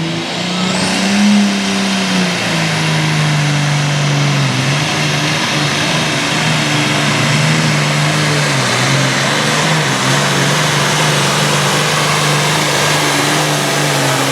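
Classic super stock pulling tractor's diesel engine running at full load through a pull down the track. The engine note holds mostly steady, with a few brief dips in pitch.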